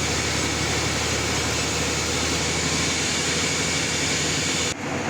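Sawmill machinery running steadily: a low engine hum with a thin, high, steady whine over it. The sound breaks off abruptly near the end and picks up again, slightly different.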